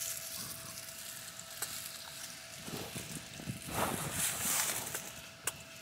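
Quiet chewing on a grilled lamb chop, with a couple of soft swells of rustle and chewing about three and four seconds in, over a faint steady tone.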